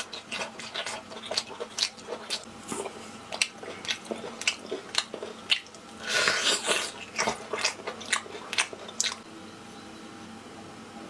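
Close-up eating sounds: a person biting and chewing, a run of sharp wet clicks with a denser, louder stretch about six seconds in, then quieter after about nine seconds.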